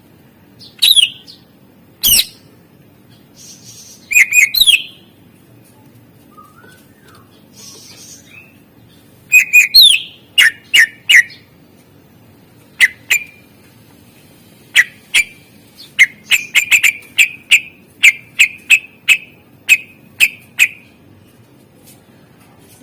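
Greater green leafbird (cucak ijo) singing loud, sharp whistled calls and chips with short pauses between them, a song stuffed with mimicked calls of other birds. From about two-thirds of the way in comes a quick run of short repeated chips, two or three a second.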